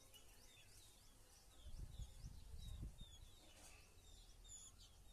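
Birds chirping faintly outdoors: many short, falling high chirps, several a second. A low rumble from about two seconds in lasts a second or so.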